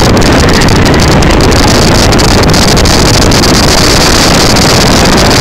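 Loud, steady wind rushing over the microphone of a moving motorcycle, with engine and road noise under it.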